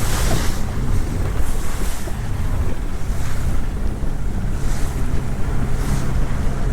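Strong wind buffeting the microphone over a rough sea, with waves slapping and splashing against a small boat's hull every second or two.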